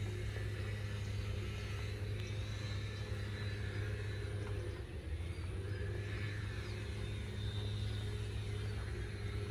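A steady low engine-like hum with a few faint higher chirps over it.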